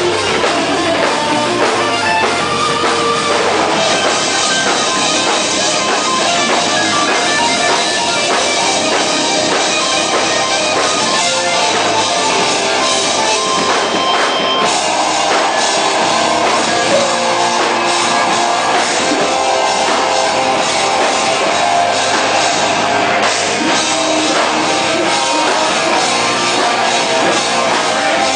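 A hardcore band playing live: loud distorted guitars and a drum kit pounding on without a break.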